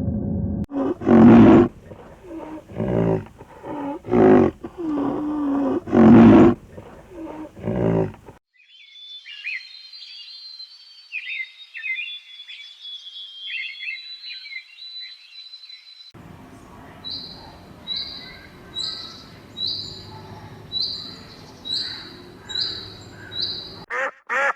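Farm animal calls in three stretches: a run of loud, low calls for about eight seconds, then high chirping bird calls, then a short high call repeated about once a second over a faint background.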